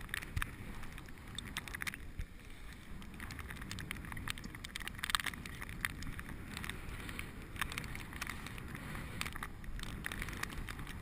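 Bicycle being ridden, heard from a camera on the rider: a steady low rumble of wind and tyres, with many scattered clicks and rattles from the bike and a cluster of them about five seconds in.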